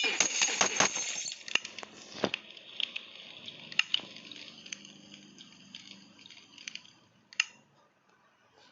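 Small hard objects clicking and clinking in a rapid clatter, thinning to scattered single clicks that fade out near the end.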